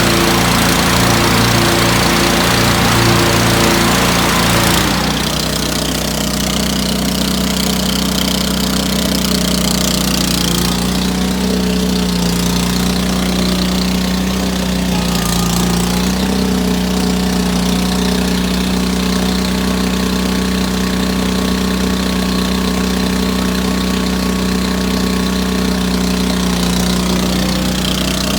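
John Deere 445 garden tractor's 22 hp liquid-cooled, fuel-injected Kawasaki V-twin engine running steadily. It is louder and harsher for the first five seconds or so, then drops to a steadier, quieter run.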